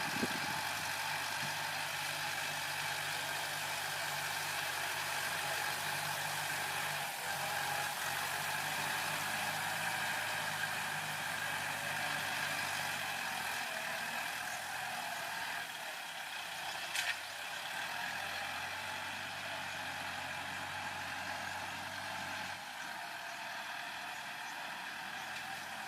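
Kubota L4708 tractor's four-cylinder diesel engine running steadily, its pitch shifting slightly a few times. A single sharp click sounds about seventeen seconds in.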